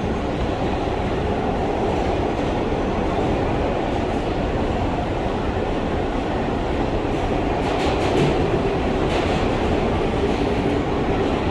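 R143 subway train running on the L line, a steady rumble of steel wheels on rails, with a few sharper clacks about eight and nine seconds in.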